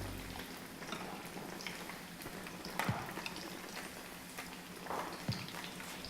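Breaded chicken breast deep-frying in hot oil in a wok, sizzling with a steady crackle and scattered pops, two of them louder about three and five seconds in.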